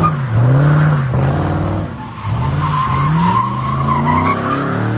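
Car engine revving up and down over and over with tires squealing on pavement, as a car does donuts; the squeal is strongest in the second half.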